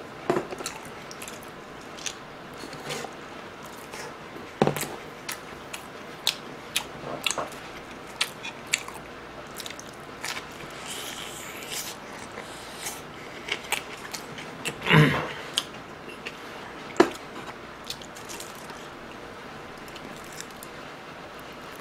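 Close-miked chewing and biting of fried snacks and rice cakes: irregular short crunches, squishes and mouth clicks, with one louder, longer mouth sound about fifteen seconds in.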